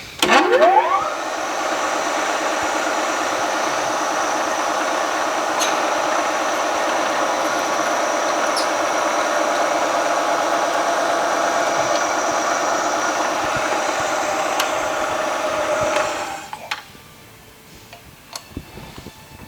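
Milling machine spindle starting with a rising whine, then running steadily while drilling a hole in a hardened steel crankshaft, stopping about sixteen seconds in.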